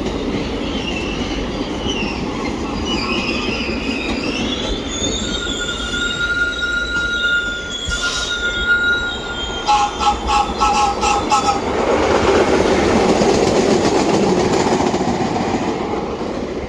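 New York City subway train running past, its wheels squealing in wavering high tones, then a steady whine. About ten seconds in comes a quick run of short repeated tones, followed by a louder rumble of the cars passing.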